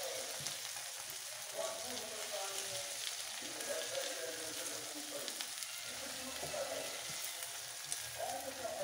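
Chicken, onion, tomato and green chilli frying in oil in a pan, sizzling steadily while a spatula stirs the ground spices through them.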